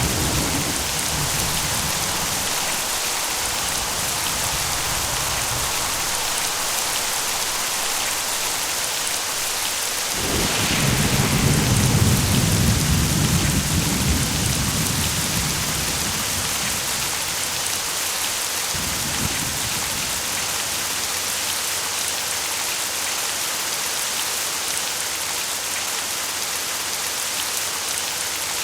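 Steady heavy rain falling, with a roll of thunder that breaks in suddenly about a third of the way through, rumbles low for several seconds and fades away; the tail of an earlier rumble dies out at the start.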